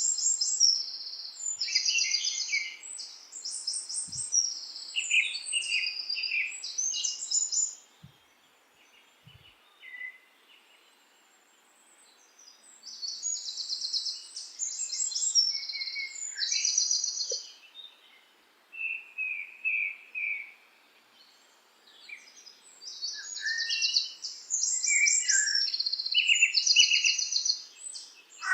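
Songbirds singing: bursts of fast, high trilled chirping phrases lasting a few seconds each, broken by pauses, with a quiet stretch about a third of the way in.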